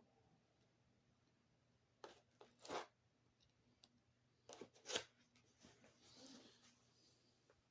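A cardboard shipping box being torn open by hand: a few short ripping and scraping sounds, the loudest about five seconds in, with quiet gaps between them.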